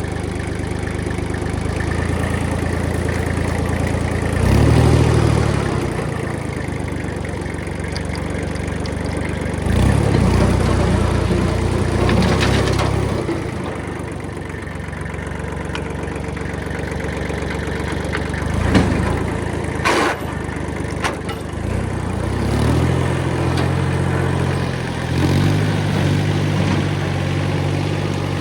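Kubota diesel engine running steadily, its note swelling louder several times as it takes load. A few sharp cracks come about two-thirds of the way through.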